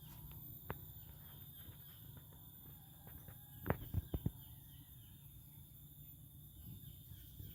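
Faint outdoor ambience: a steady high insect hum over a low rumble, with a few short knocks about four seconds in.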